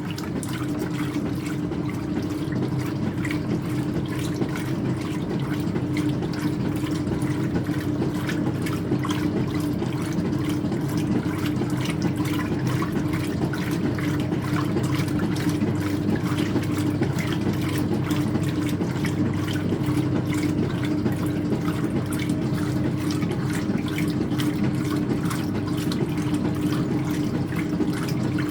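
Speed Queen top-loading washer agitating a load of towels in water: a steady motor hum under continuous water sloshing.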